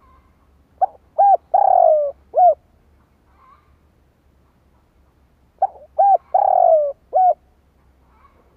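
Spotted dove cooing: two matching phrases about five seconds apart, each of two short coos, a longer coo falling in pitch and a short closing coo.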